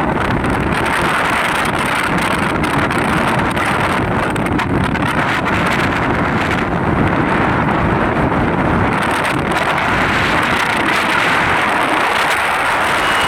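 Steady loud rushing of wind and travel noise from a moving vehicle, with wind buffeting the microphone.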